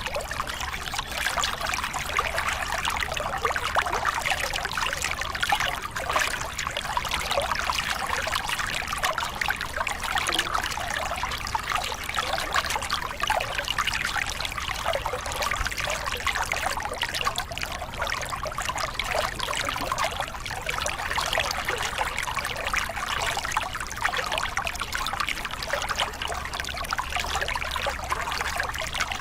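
A small river cascade: water pouring and splashing over rocks in a steady, bubbling rush with no change.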